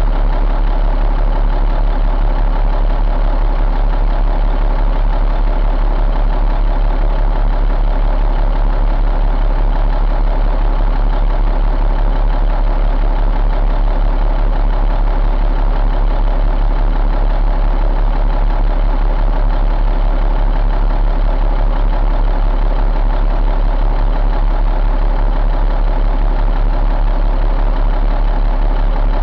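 1999 Caterpillar C12 inline-six diesel engine idling steadily, with an even low rumble.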